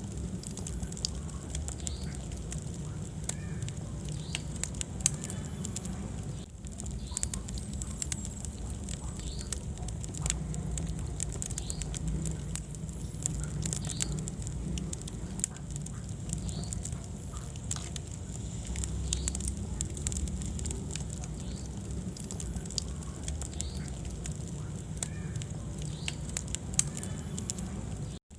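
Wood fire burning in a fireplace: steady low rumble of the flames with irregular sharp crackles and small pops from the burning logs.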